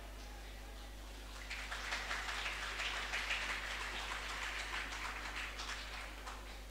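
Faint applause from a small audience, many hands clapping, starting about a second and a half in and dying away near the end, as a performance finishes.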